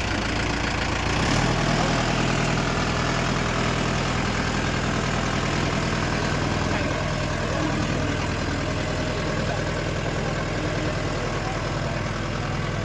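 Tractor engine running steadily at a low, even speed; its note shifts slightly about a second in, then holds.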